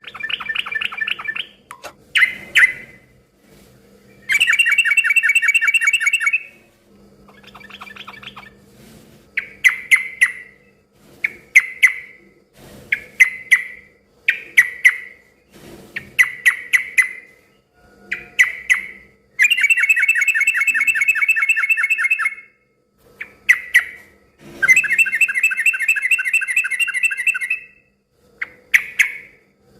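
Yellow-vented bulbul (trucukan) singing loudly: short bubbly chattering phrases about once a second, broken by three longer rapid trills of two to three seconds each. A faint steady hum lies underneath.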